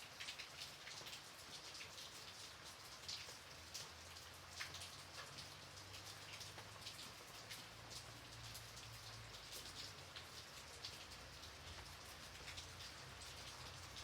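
Gentle rain falling: a soft steady hiss with many separate drops ticking sharply on a surface close by.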